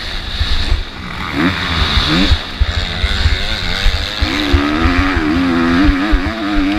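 MX2 motocross bike's engine revving up and down through the race: short rising revs a little over a second in, then sustained running with the revs wavering from about four seconds on. Steady hiss and rapid low thudding buffet the microphone throughout.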